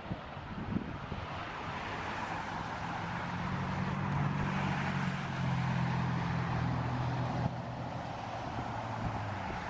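Jet aircraft engines at takeoff power: a steady rushing noise with a low hum underneath, swelling over the first few seconds and then holding.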